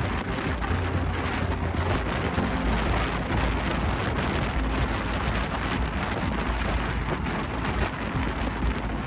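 Diesel passenger train running, a steady rumble and clatter with wind buffeting the microphone.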